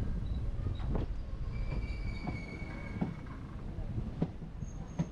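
Meter-gauge train running on the line: a steady low rumble with irregular knocks from the wheels, and a faint high wheel squeal for a second or so near the middle.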